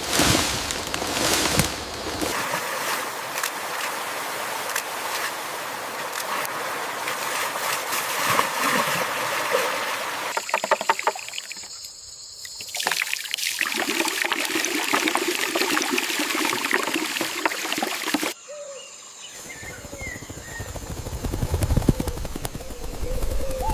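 Running water trickling and splashing, in several stretches that change abruptly.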